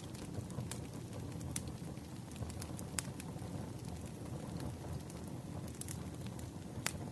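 Wood campfire crackling: a steady low rumble of burning with scattered, irregular sharp pops and snaps.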